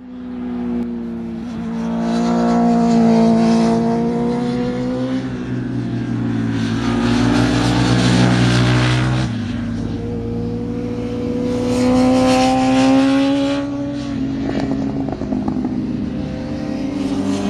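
Motorcycle engine under way at speed, its revs climbing and falling back as the throttle is opened and rolled off.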